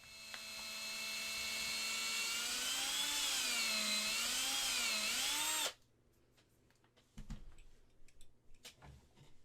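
Small electric drill running as it drills a pin hole into a resin model-kit part. The pitch is steady at first, wavers up and down from about two seconds in, and the drill cuts off suddenly near six seconds, followed by a few light taps and clicks.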